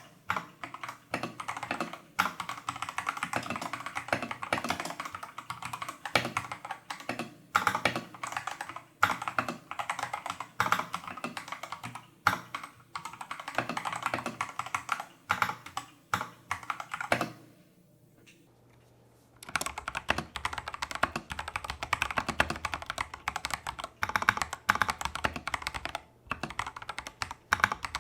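Typing on a Tester68 mechanical keyboard with Holy Panda clone tactile switches and XDA-profile keycaps, in stock factory-lubed form, not hand-lubed. It is a steady stream of key clacks, broken by a pause of about two seconds a little past the middle. After the pause the typing sounds fuller, with more low end.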